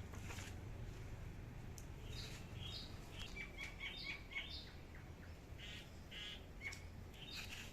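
A small bird chirping in short, quick high notes, with a couple of brief trills about six seconds in, over a faint low steady hum.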